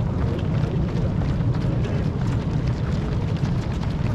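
Steady low rumble of wind on the microphone, with the light, scattered footsteps of a stream of marathon runners going past.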